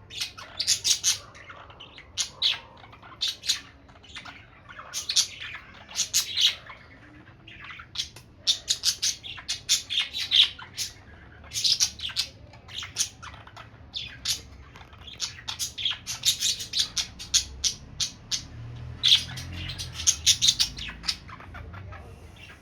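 Budgerigar chattering to itself: quick runs of sharp, high chirps and squawks coming in bursts, with short pauses between them.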